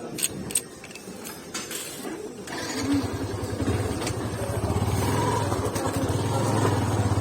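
A few sharp clicks, then a motorcycle engine running with a steady low pulse that grows louder from a couple of seconds in as the bike moves off.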